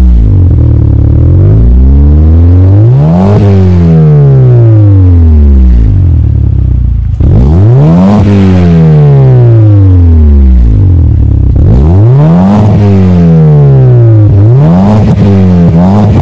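Car engine revved repeatedly through its exhaust, loud: about four blips, each climbing quickly in pitch and sinking back slowly toward idle.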